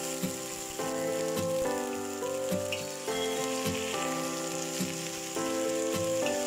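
Raw chicken pieces sizzling as they fry in hot oil in a wok, with a metal spatula knocking and scraping a few times as they are stirred. Background music with chords changing about every second plays underneath.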